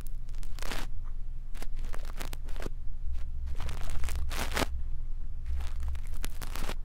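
A brush scratching and rustling close against a microphone, ear-cleaning ASMR style, in irregular strokes of varying length over a faint low hum.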